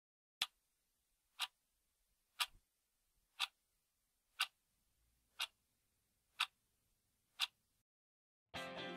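Clock-ticking sound effect: eight even ticks, one a second, in otherwise near silence. Guitar music starts just before the end.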